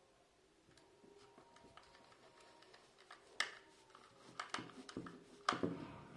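Small clicks and knocks from hands handling and fitting together the plastic parts of a hot glue gun. The first half is quiet, then come several sharper taps from about the middle on.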